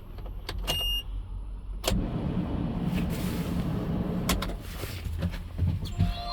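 Toyota ToyoAce truck's N04C four-cylinder diesel engine starting after a short electronic beep: it catches about two seconds in and then runs at a steady low idle.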